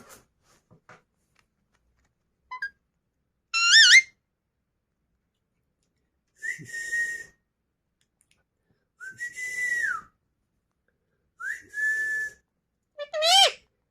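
A pet parrot whistling: five separate whistles a few seconds apart. Two have a fast wavering warble, one about four seconds in and one near the end. The three between them are flatter and held for about a second each, with a scratchy hiss over them.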